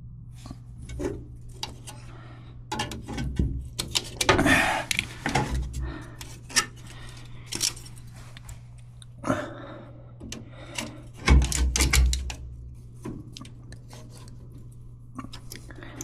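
Thin metal fins being cut, bent and pulled off a finned copper heating pipe: irregular metallic clicks, snips and scrapes, with a few louder bursts of knocking and handling. A steady low hum runs underneath.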